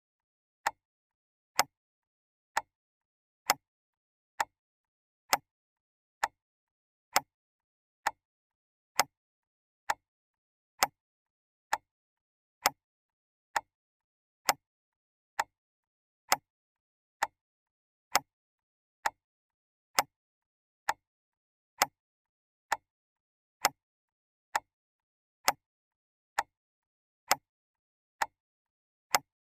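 Clock ticking steadily: sharp, evenly spaced ticks a little faster than one a second, with nothing heard between them.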